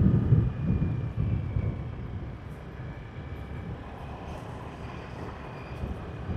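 Road noise from riding a motorbike: a low, steady rumble of wind and tyres, louder for the first second or so and then settling, with a faint thin whine above it.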